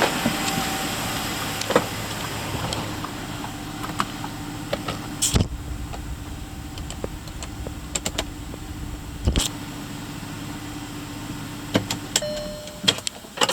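Audi Q5's 3.2-litre naturally aspirated V6 FSI engine (CAL) idling steadily during a start-up test, with a few sharp clicks or knocks over the running sound.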